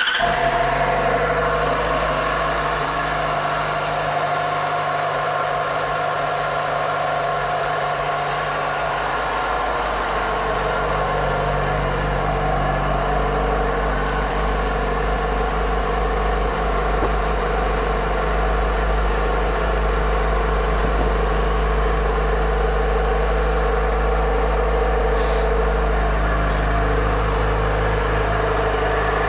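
2006 Yamaha FZ6's 600 cc inline-four engine idling steadily.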